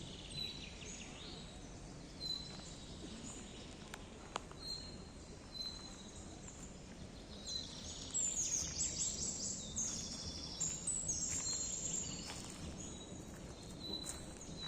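Wild birds singing: one bird repeats a short, high single note every second or so, and about halfway through a louder, busier song of rapid trills joins in for several seconds.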